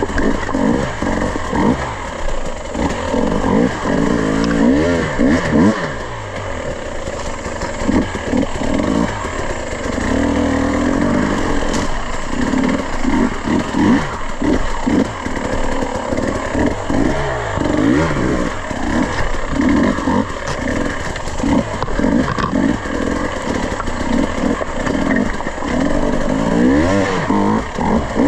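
Off-road dirt bike engine revving up and down over and over as the throttle is opened and closed while riding.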